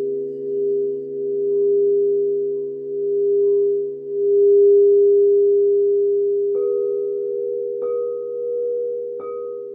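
Crystal singing bowls ringing in several overlapping steady tones that swell and fade in slow, pulsing waves. About two-thirds of the way in, three light strikes bring in a higher ringing tone that sustains over the others.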